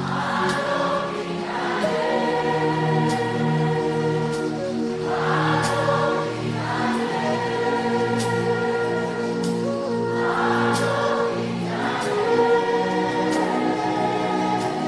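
Gospel worship singing: a choir of voices sings a slow chorus over sustained backing music, the sung phrases swelling about every five seconds, with a soft beat about once a second.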